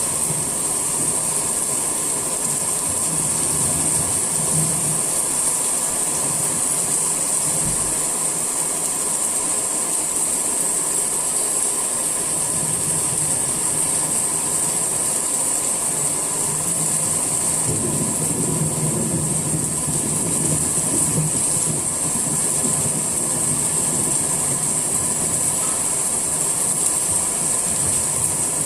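Steady summer rain falling, an even hiss, with a low rumble underneath that grows stronger a little past the middle.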